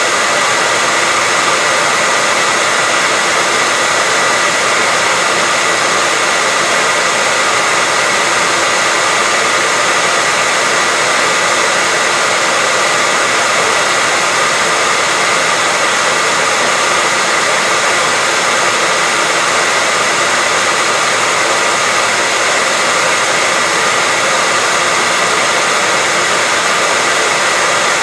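Hairdryer running steadily on one setting: an unbroken blowing rush with a steady high whine from its fan motor.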